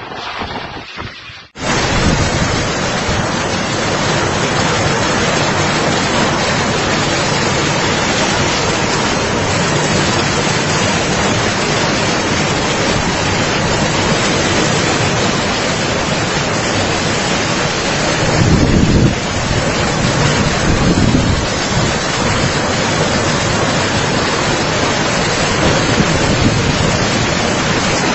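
Loud, steady rush of cyclone wind and rain battering the microphone, starting abruptly about a second and a half in, with stronger gusts about two-thirds of the way through.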